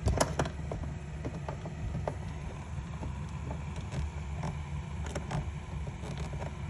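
A cluster of sharp clicks, then scattered light clicks and taps of parts being handled during a door speaker and trim install, over a steady low rumble.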